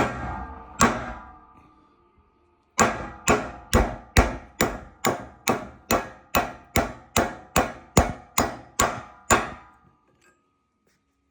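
Hammer blows on a homemade flat-bar drift, driving out the pressed-in keeper that holds a 4-jaw chuck's adjusting screw: two ringing metal-on-metal strikes, a pause, then a steady run of about seventeen strikes, roughly two and a half a second.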